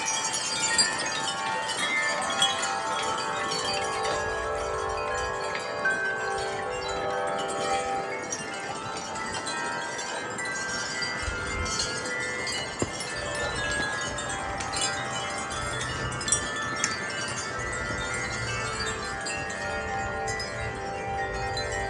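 Several wind chimes ringing continuously in gusty wind, many overlapping tones struck again and again, with a low wind rumble on the microphone at times.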